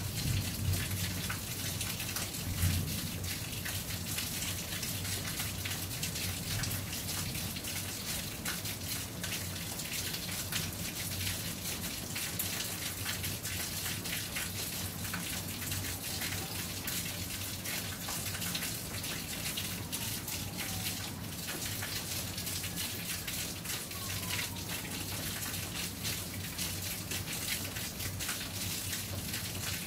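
Steady rain falling, a dense patter of drops, with a low rumble of distant thunder dying away over the first few seconds.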